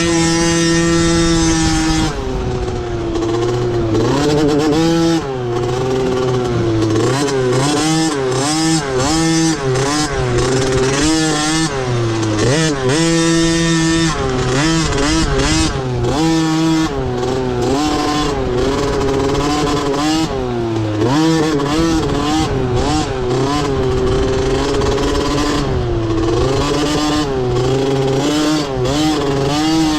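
A field of motocross dirt bikes held at steady high revs at the start line, then about two seconds in the engines break away, their pitch rising and falling over and over as the bikes accelerate and shift through the gears.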